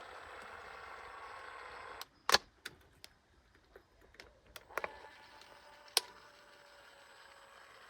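A steady hiss for about two seconds, then a series of sharp clicks and knocks at uneven intervals, the loudest about two seconds in.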